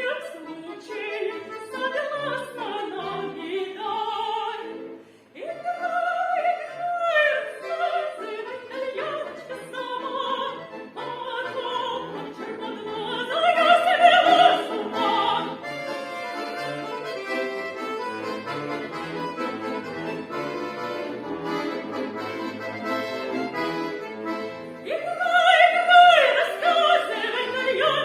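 A solo female singer sings a Russian song with instrumental accompaniment. For several seconds in the second half the voice drops out and the accompaniment plays alone, and the singing comes back near the end.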